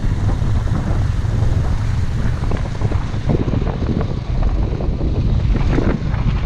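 Wind buffeting the microphone on a moving motorbike, with a steady low rumble of engine and road underneath and irregular gusts.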